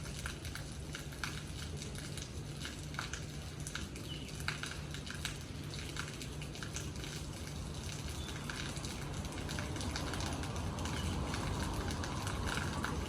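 Rain falling, with scattered individual drops ticking and pattering on a nearby surface over a steady wash, and a low steady hum underneath; the wash grows a little louder past the middle.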